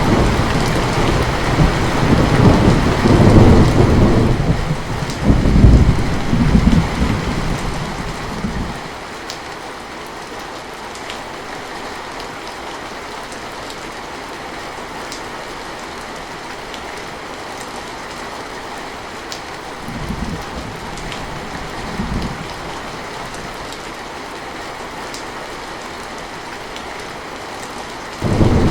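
Heavy rain falling steadily, with thunder rolling for the first eight seconds or so. Two short low rumbles come about two-thirds of the way through, and another loud peal of thunder breaks in suddenly at the very end.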